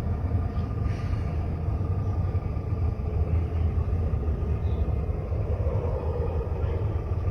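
A steady low rumble that holds at the same level throughout.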